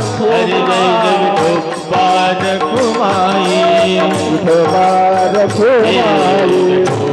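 Marathi Varkari bhajan music: a singer's gliding, ornamented melody over held steady accompaniment tones, with hand percussion keeping a steady beat.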